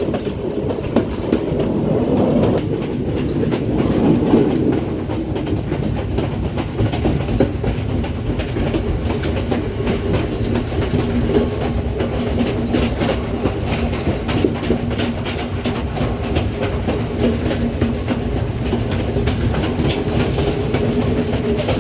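Passenger train running, its wheels clattering and clicking over the rail joints. From about ten seconds in, a steady low hum runs underneath.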